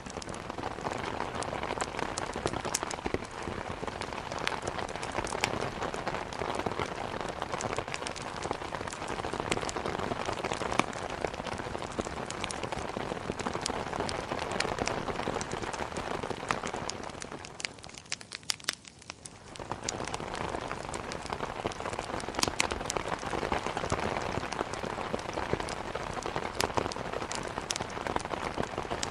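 Steady heavy rain falling on a surface, with many scattered sharp drop ticks. It fades for a moment about two-thirds of the way through, then comes back.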